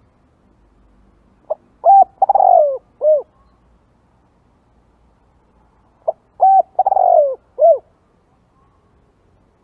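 Spotted dove cooing: two phrases about five seconds apart. Each phrase is a short note, a coo, a longer falling coo and a short closing coo.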